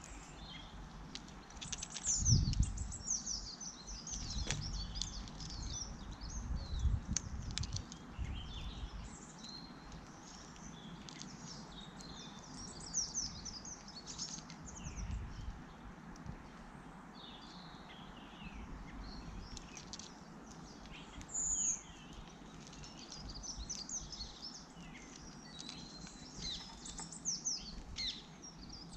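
Several small garden birds chirping and twittering continuously, with a few low thumps or rumbles breaking in, the loudest about two seconds in.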